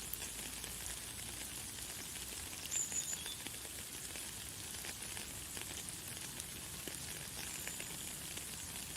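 Light, fine rain falling: a steady hiss made of many small drop ticks. About three seconds in a bird gives a short high chirp, and another faint high call comes near the end.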